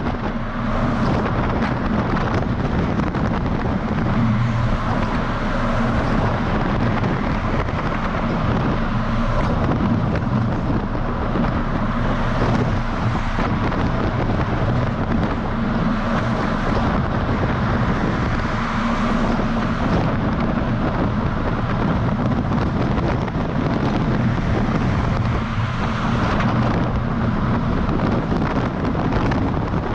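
DAF XF semi-truck driving at a steady pace: a constant engine drone under tyre and road noise, with wind buffeting the microphone.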